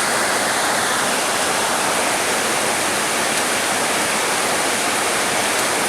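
Steady heavy rain falling, a dense even hiss with no breaks or thunder.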